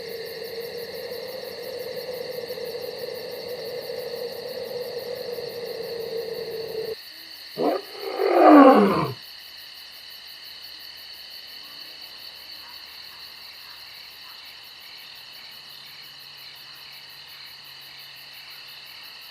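A big cat roaring: a short grunt and then one loud roar that falls in pitch, about eight seconds in. A steady droning tone comes before it and cuts off just before the roar, and a steady chorus of crickets runs underneath.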